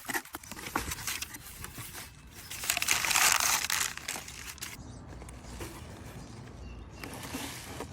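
Packaging crinkling and rustling as it is handled during the unboxing of boots, with a louder burst of crumpling a couple of seconds in, then softer rustling.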